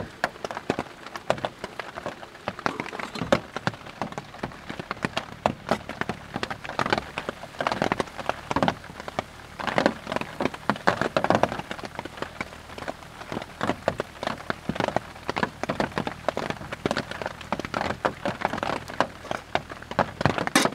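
Heavy rain pattering on the tent fabric, a dense, irregular patter of drops. Near the middle, hot water is poured from a camping kettle into a plastic bowl.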